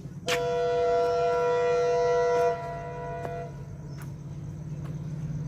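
Locomotive air horn sounding one steady two-note blast for about three seconds, the lower note cutting off about a second before the higher one. A steady low hum runs underneath.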